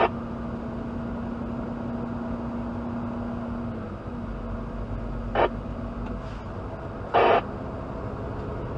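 Truck cab with the engine and road noise running steadily, broken by two brief, loud bursts of noise about five and seven seconds in.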